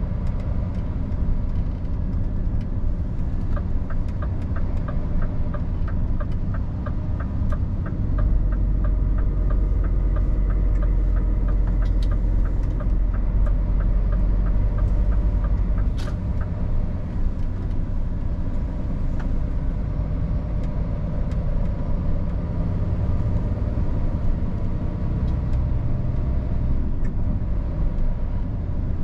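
Scania R450 truck's inline-six diesel and road noise during driving: a steady low rumble that grows deeper and louder for several seconds in the middle. A regular ticking runs through the first half.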